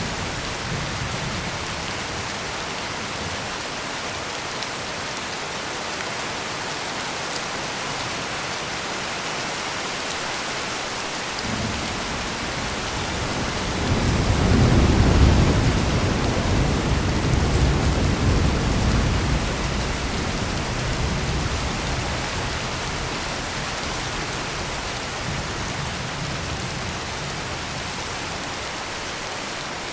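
Heavy rain pouring steadily, with one low roll of thunder that builds a little over a third of the way in, peaks near the middle and rumbles away over several seconds.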